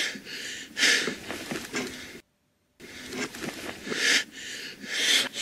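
Heavy, raspy breathing in short noisy bursts, broken once by a moment of dead silence a little over two seconds in.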